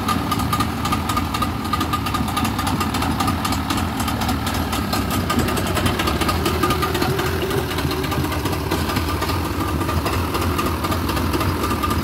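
An engine idling steadily, with a fast even pulse and a faint constant whine.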